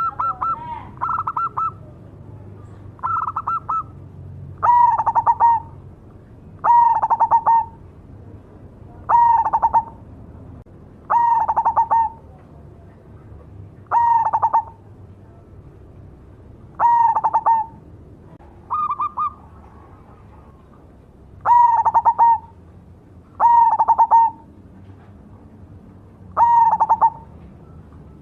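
A zebra dove (perkutut) of the black cemani variety singing its rolling, stuttering coo, about a dozen phrases, one every two to three seconds. A few phrases near the start and one midway are pitched a little higher than the rest.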